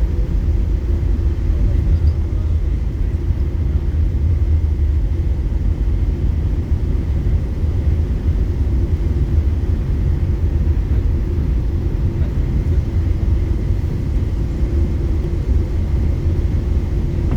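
Boeing 747-8 airliner's engine and airflow noise: a steady low rumble that does not change.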